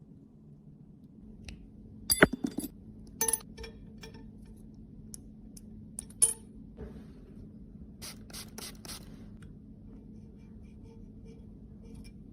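Cosmetic containers and tools clicking and tapping as they are handled, loudest about two seconds in. About eight seconds in comes a quick run of four or five scraping strokes.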